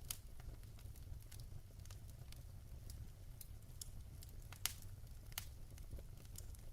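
Wood fire burning in a fireplace: scattered sharp crackles and pops over a low steady rumble, with one louder pop past the middle.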